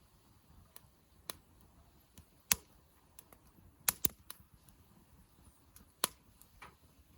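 Wood campfire crackling: irregular sharp snaps and pops of burning wood, the loudest about two and a half, four and six seconds in.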